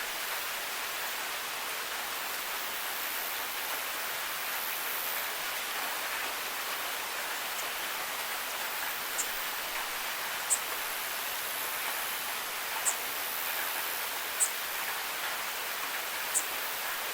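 Steady rain falling, an even hiss. In the second half come a few sharp high ticks, one to two seconds apart.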